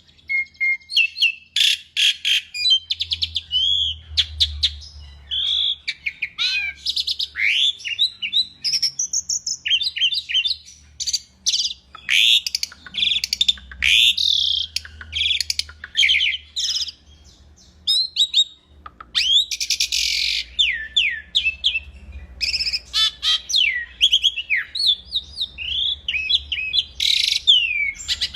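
Asian pied starling (jalak suren) singing a long, varied song of whistles, rapid chattering trills and slurred up-and-down notes, with a brief pause about two-thirds of the way through.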